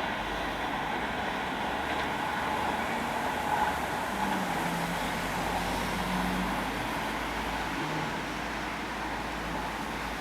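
Steady hiss and rumble of traffic, with a low engine note that holds and dips in pitch around the middle.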